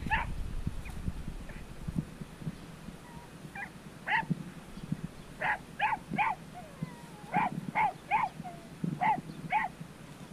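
Puppies whimpering and yipping in short, high, pitched cries that come in small groups of two or three, with quieter gaps between.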